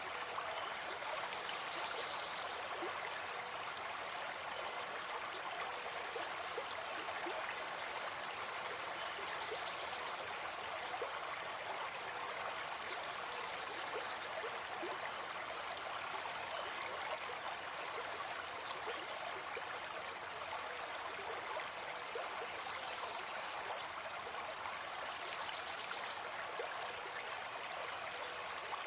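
Forest stream flowing steadily: an even rush of water with many small splashes and trickles.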